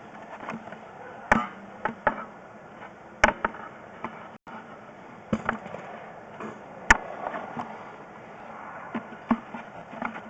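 Scattered sharp knocks and clunks at irregular intervals, the loudest about seven seconds in, over a steady background hiss.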